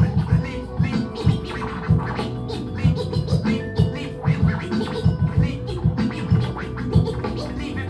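DJ cutting and scratching a record over a hip hop beat, with many short scratch strokes on top of a steady drum pattern.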